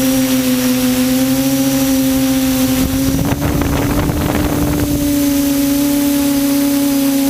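Quadcopter motors and propellers running with a steady high drone. From about three to five seconds in, a rush of wind noise sweeps over it.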